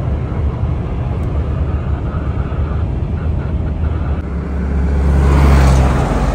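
Heavy truck's diesel engine running with a steady low drone, heard from inside the cab while driving; the sound swells louder about five seconds in, then eases.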